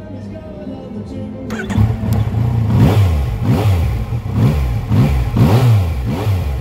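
2016 Yamaha XSR900's 847cc inline-triple engine through an Akrapovic exhaust. It runs low and steady at first, then about a second and a half in it is revved hard in a quick series of five or six throttle blips, each rising and falling in pitch.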